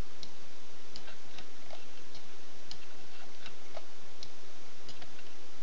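Computer mouse clicking, a scattered handful of faint, short clicks at uneven spacing, over a steady microphone hiss.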